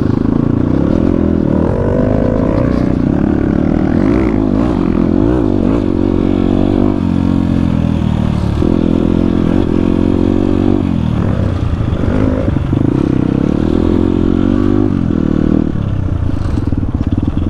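Dirt bike engine being ridden offroad, its pitch rising and falling constantly as the throttle is opened and closed, easing off briefly a few times.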